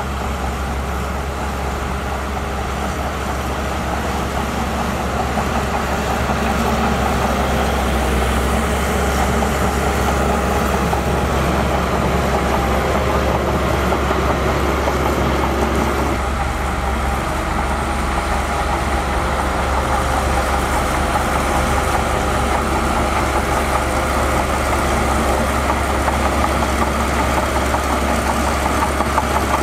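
Heavy diesel engine of earthmoving machinery running steadily with a deep hum, growing louder over the first several seconds.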